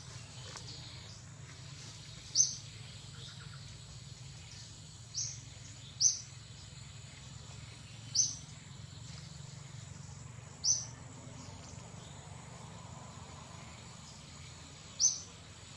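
A bird giving six short, high chirps a few seconds apart, each dropping slightly in pitch, over a steady faint low hum of forest background.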